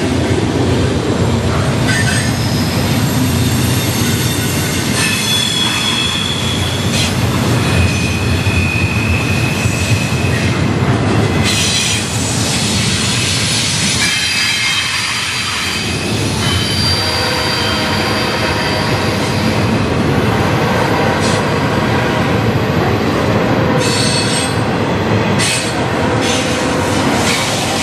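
Double-stack intermodal well cars of a freight train rolling steadily past at close range: a continuous rumble of wheels on rail with scattered clicks at the rail joints and high wheel squeals that come and go.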